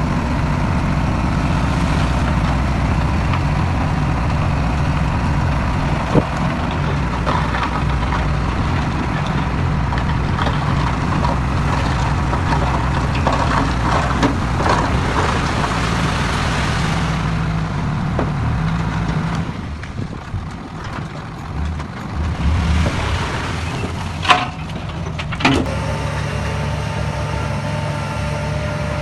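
Heavy diesel earthmoving machinery running steadily, with scattered clanks and knocks. The engine eases off briefly about two-thirds of the way in, and two sharp bangs come near the end.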